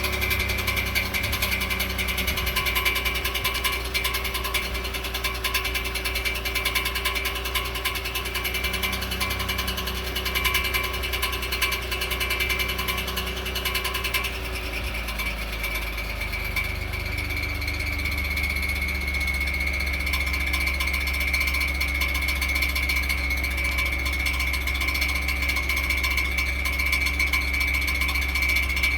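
2018 Ford F-150's 3.5 L EcoBoost twin-turbo V6 running at idle just after a cold start, with a steady high-pitched whine over the engine sound; the sound changes about halfway through and the whine grows stronger.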